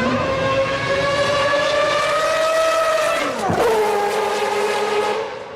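Race car engine at high revs, its pitch climbing steadily, then dropping sharply about three and a half seconds in and holding lower before fading near the end.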